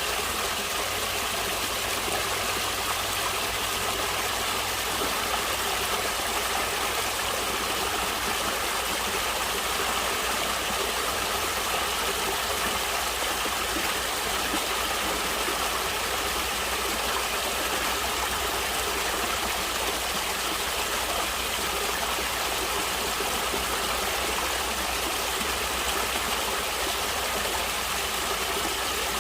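Natural stream water flowing steadily, an even, unbroken rushing with no pauses or separate splashes.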